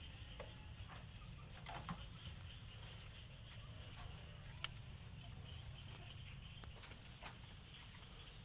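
Cats eating: faint, scattered small clicks and crunches of chewing, a few sharper ones standing out, over a low steady background rumble.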